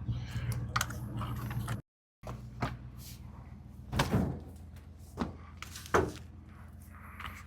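Truck engine idling steadily, with several sharp clunks and knocks over it, the loudest like a door being shut.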